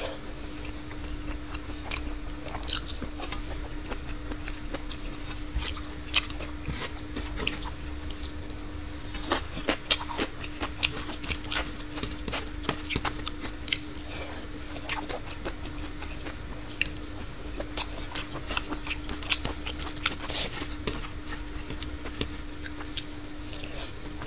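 Close-miked chewing of a hand-eaten mouthful of rice with green peas and taro leaves: wet mouth clicks and lip smacks scattered through, over a steady low hum.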